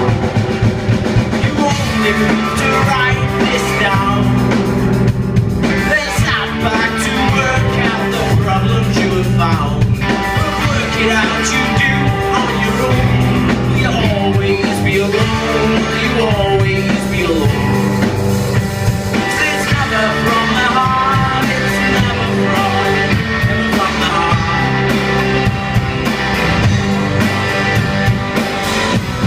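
Rock band playing live: a singer over drum kit and guitar, loud and continuous.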